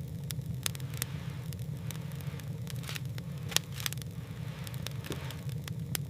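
Steady low rumble with irregular sharp crackles and clicks over it.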